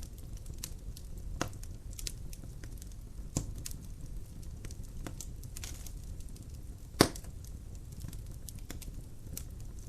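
Wood fire in a fireplace: logs crackling, with irregular sharp pops and snaps over a low steady rumble of the flames, the loudest pop about seven seconds in.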